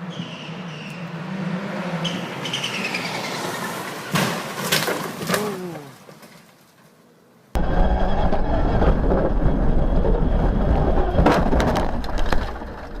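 Rally car engine running with falling revs, broken by two sharp bangs about four and five seconds in, then dying away. An abrupt cut brings a loud engine with heavy low rumble and scattered knocks.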